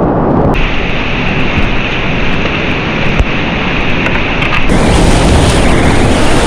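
Whitewater rapids rushing, a loud, dense churning roar of water, its tone changing abruptly about half a second in and again near five seconds in.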